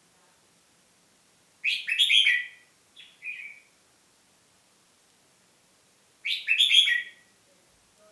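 Caged songbird singing: two short, loud song phrases about four and a half seconds apart, with a brief shorter call just after the first.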